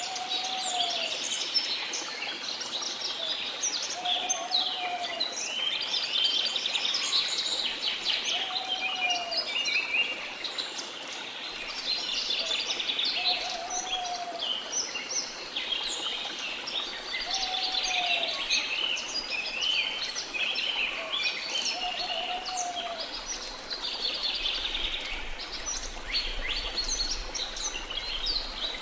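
A dense tropical rainforest bird chorus: many birds chirp and trill together without pause. Through it, a lower, arching call repeats about every three to four seconds, over a faint steady hiss.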